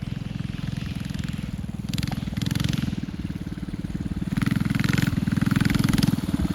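Mini bike with a swapped-in Predator 212 single-cylinder four-stroke engine running as it rides closer, getting louder, with the throttle opened up twice.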